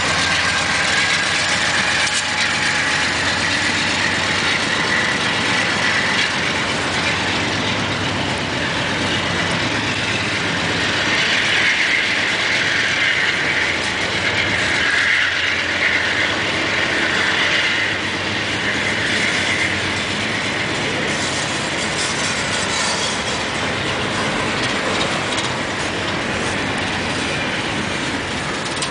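Coal cars of a CSX freight train rolling past close by: a steady clatter and rumble of steel wheels on the rails.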